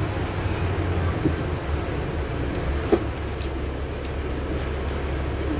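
LiAZ-6213.65 articulated city bus heard from inside while driving: a steady low engine and road drone, with a couple of short knocks, the sharpest about three seconds in.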